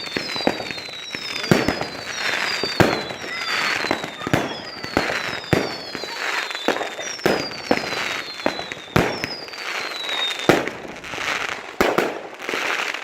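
Fireworks going off: a steady run of sharp bangs and crackling, with whistles falling in pitch about once a second until about ten seconds in.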